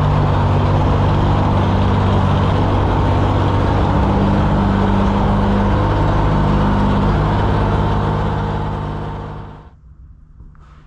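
Gas pressure washer running: a steady engine hum under the hiss of the spray. It dies away about nine and a half seconds in.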